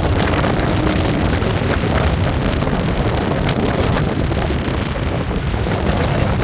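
Royal Enfield Hunter 350's single-cylinder engine running steadily under way, with heavy wind buffeting on the phone's microphone.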